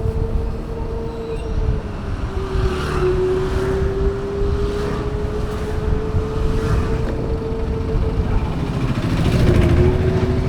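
Ola S1 Pro Gen 2 electric scooter riding, its motor whine a steady tone that dips slightly twice and climbs back as speed changes. Heavy wind rush on the microphone runs under it.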